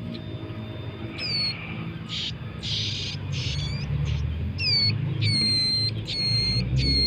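Ciblek gunung (prinia) chicks calling: short raspy, hissing begging calls, then a quickening run of sharp calls that each drop steeply in pitch, about two a second near the end.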